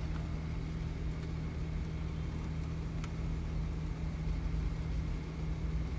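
BMW X6 E71's engine idling steadily, a low hum heard from inside the cabin, with one faint click about halfway through.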